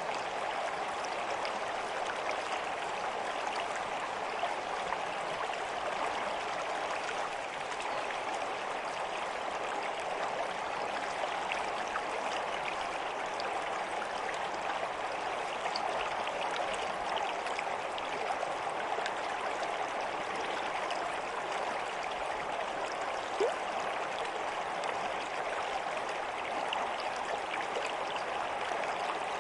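Stream of water running steadily, an even rushing and gurgling with faint drops, and one small tick about two-thirds of the way through.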